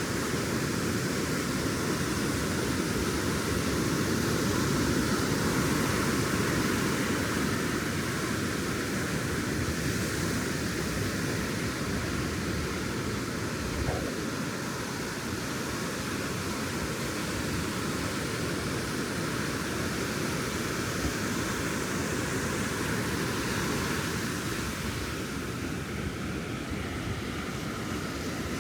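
Ocean surf breaking and washing up the beach: a steady rush of waves that swells a little about five seconds in.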